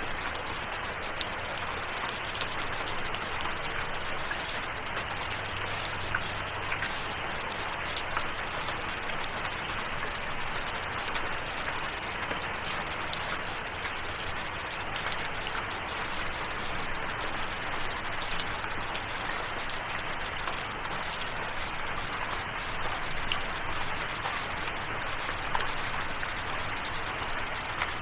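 Steady rain falling, with many scattered individual drops ticking sharply against a surface.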